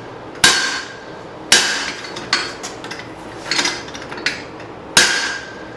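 Hand hammer striking a guillotine tool over hot leaf-spring steel on the anvil: three heavy blows with lighter strikes between, each with a short metallic ring.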